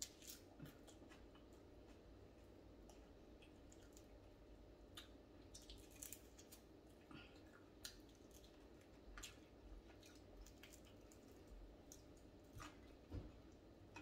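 Quiet chewing of fried tilapia eaten with the fingers, with scattered soft clicks of the mouth and of picking at the fish over a low steady room hum.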